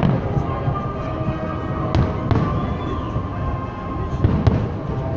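Fireworks going off: a dense rumble of exploding shells, with sharp bangs about two seconds in and again around four and a half seconds.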